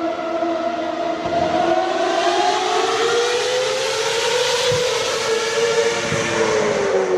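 Ferrari racing car's engine running at high revs on track, its pitch climbing slowly for about four seconds and then falling away.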